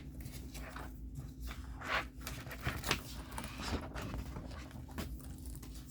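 Paper pages being handled, a few soft rustles and scrapes about two and three seconds in, over a low steady hum.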